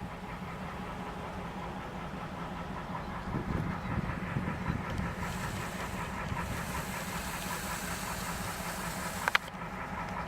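EMD SD38-2 diesel-electric locomotives running, a steady low engine rumble with a non-turbocharged 16-cylinder 645 engine. A high hiss comes in about halfway and stops near the end, where there is one sharp click.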